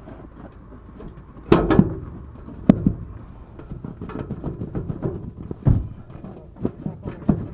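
A series of irregular knocks and clunks, the loudest about one and a half seconds in and again just under three seconds in, with a few smaller ones near the end.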